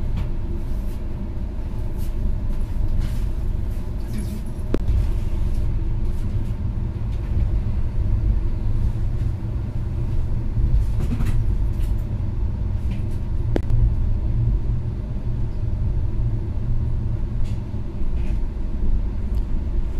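Steady low rumble inside a Shatabdi Express passenger coach as the train rolls slowly out of the station, with a few short clicks and knocks from the running gear.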